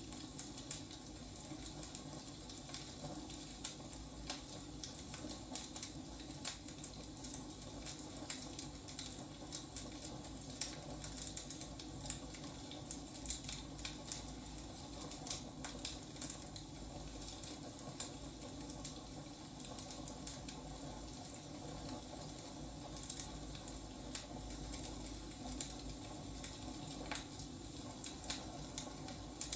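Wood fire burning, with irregular sharp crackles and pops over a steady low hiss.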